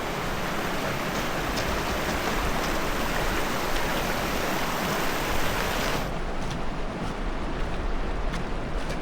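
Rain-swollen braided river running fast, a steady rush of water. About six seconds in, the hiss thins at the top and a few light clicks come through.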